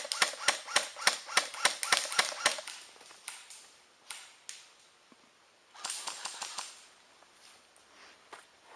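Airsoft guns firing: a rapid string of about a dozen sharp shots at about four a second, then scattered single shots and a short flurry about six seconds in.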